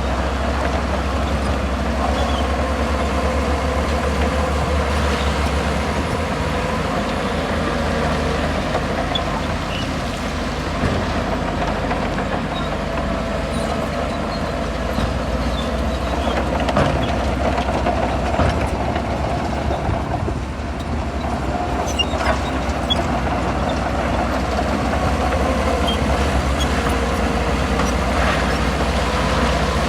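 Bulldozer's diesel engine running steadily under load while pushing rock, with a few sharp knocks.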